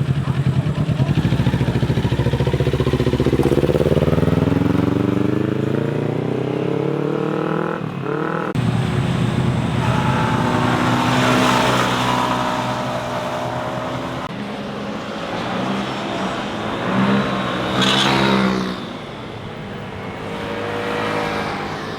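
Motorcycle engines accelerating and passing by. A low engine note climbs steadily in pitch over the first several seconds and breaks off abruptly about eight seconds in, then more engines follow at varying pitches, with one passing close about eighteen seconds in.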